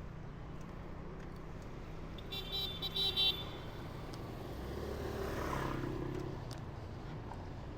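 Road traffic rumbling, with a vehicle horn giving several short toots about two to three seconds in, then a vehicle passing close by around five seconds in.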